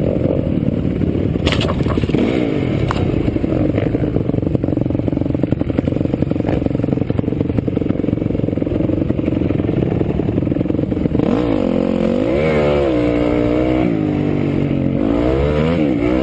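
Dirt bike engines running and revving, their pitch swinging up and down repeatedly in the last few seconds as throttles are blipped. A few sharp knocks sound in the first few seconds.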